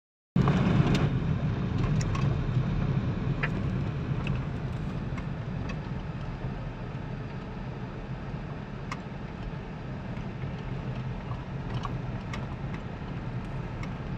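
A motor vehicle's engine running steadily, with a few faint clicks.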